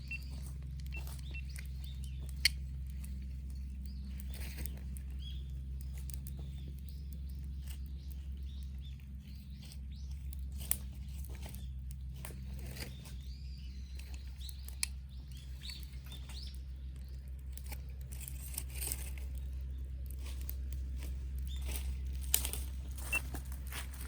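Wood campfire crackling, with scattered sharp pops, over a steady low hum; faint bird chirps now and then.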